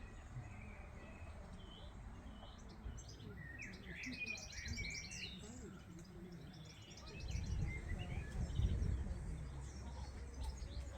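Small songbirds singing, with a quick run of high, rapid notes between about three and six seconds in. A low rumble swells about seven seconds in and is the loudest sound.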